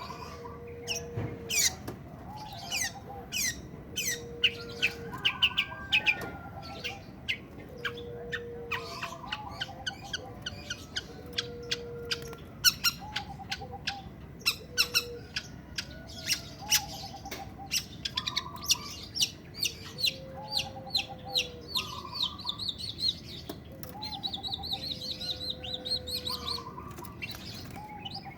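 Long-tailed shrike in breeding condition singing: rapid, sharp chirping notes, with a lower note repeated about every two seconds and a fast trill in the last third.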